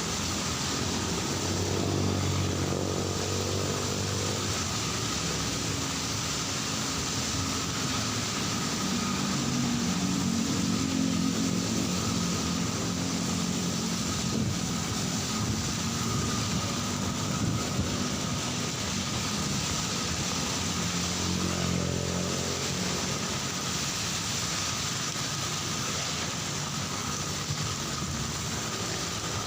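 Steady heavy rain, with the engines of motorcycles and cars passing on the wet street, rising and fading one after another.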